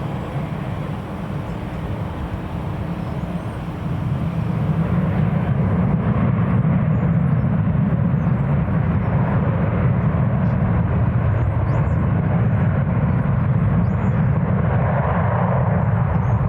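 Jet airliner engines rumbling, growing louder about four seconds in and then holding steady.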